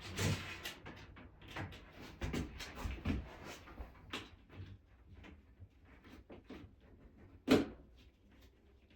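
Hands working on a floor: scattered small clicks, taps and rubbing, with one sharp knock about seven and a half seconds in.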